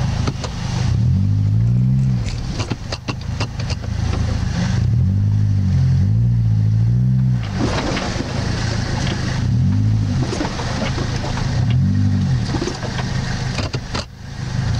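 Off-road 4x4's engine revving up and falling back again and again under load, as it works to climb a steep, stony riverbank. Scattered knocks and clicks run through it.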